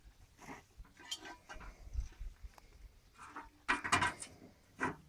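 Scattered knocks and clatters of hard objects being handled, the loudest cluster about four seconds in.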